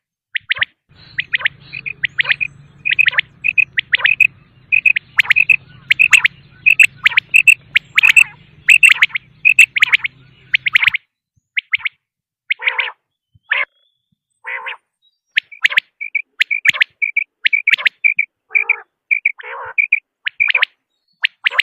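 Quail calling: quick series of short, sharp, high notes, pausing for about a second near the middle before sparser, lower calls and another fast run. A faint low hum sits under the first half.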